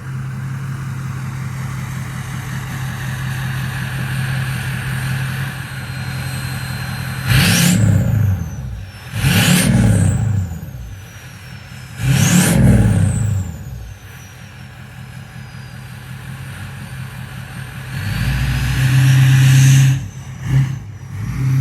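Straight-piped 6.0 Powerstroke diesel V8 of a 2004 Ford F-250, idling rough after a cold start well below freezing. It is revved three times in quick succession, each rev followed by a high whistle falling away. Near the end comes a longer rev and a short blip.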